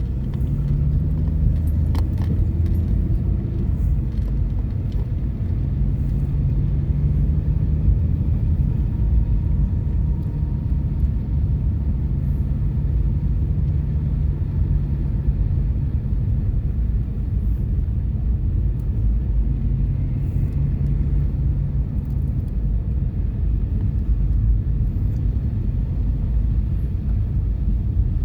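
Car engine and road rumble heard from inside the cabin while driving, a steady low drone, with one sharp click about two seconds in.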